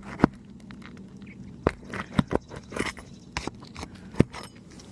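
A tool scraping and clicking against brittle fiberglass roof shingles while working the roofing nails loose, in a string of irregular sharp scrapes and clicks, the loudest near the end.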